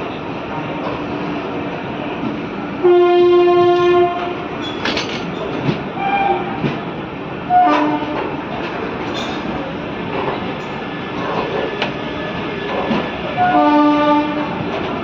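Indian Railways locomotive horn sounding three times: a blast of about a second, a short toot midway, and another blast near the end. Under the horn runs the steady rumble and clatter of a train on the tracks.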